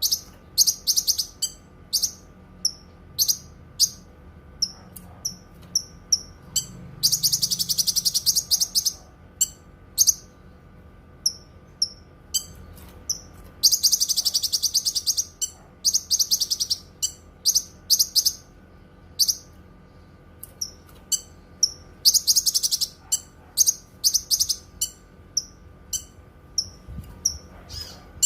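Cucak kinoi bird singing. Short, high chirps come every second or so, broken three times by a rapid chattering run about two seconds long.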